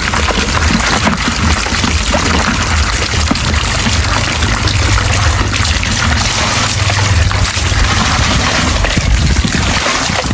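Steady noise of running, pouring water, with a low rumble underneath.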